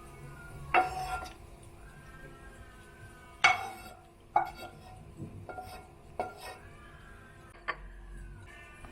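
Dishes and cutlery clinking as kitchenware is handled: about six separate sharp clinks with short rings, at irregular intervals, the loudest about three and a half seconds in.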